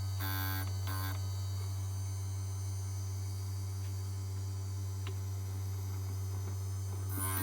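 Steady low electric hum of the cutter grinder's motor running. Two short brighter bursts come in the first second, and two faint ticks follow later.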